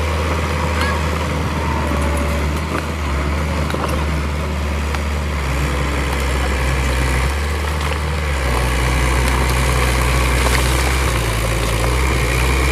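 Bulldozer's diesel engine running steadily as a low drone, its pitch shifting slightly now and then.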